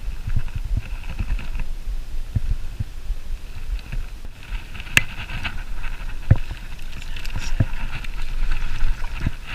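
Irregular low bumps and knocks on a kayak hull, with a few sharp clicks around the middle, as the angler moves about and handles gear in the boat.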